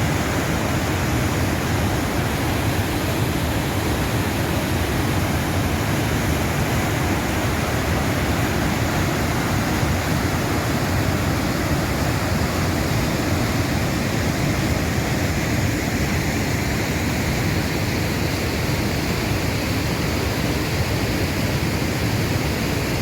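High Force waterfall on the River Tees, dropping over 21 metres, giving a loud, steady, unbroken rush of falling water.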